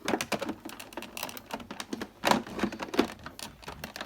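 Hard plastic toy being handled and turned over: an irregular run of light clicks and knocks, with louder knocks a little past two seconds in and again about three seconds in.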